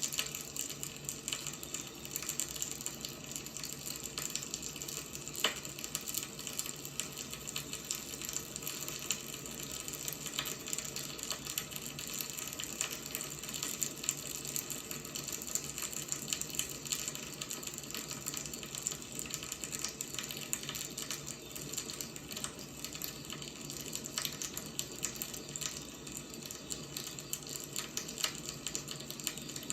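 Wood fire burning: a steady low hiss with frequent small irregular crackles and pops, one sharper pop about five seconds in.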